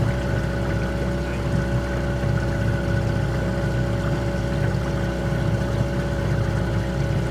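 A small boat's outboard motor running steadily at constant speed, a low rumble with a fixed whine above it.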